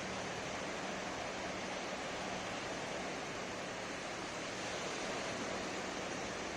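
Ocean waves breaking on a beach: a steady rush of surf that swells slightly about five seconds in.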